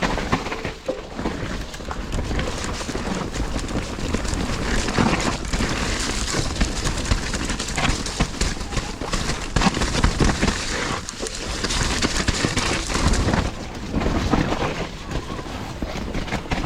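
Mountain bike riding down a wet trail: tyres rolling over the ground with a continuous rush of noise and low rumble, and many small knocks and rattles from the bike over bumps.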